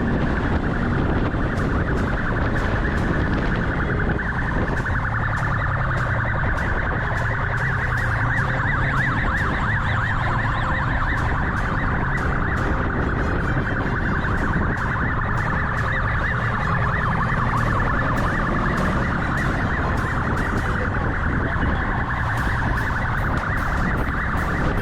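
Police siren warbling rapidly without a break, over the rumble and wind noise of the pursuing vehicle.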